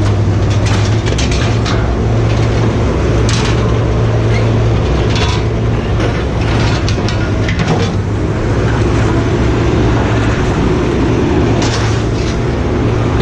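A heavy engine running steadily with a constant low hum. Sharp metallic clanks and knocks come at irregular moments over it.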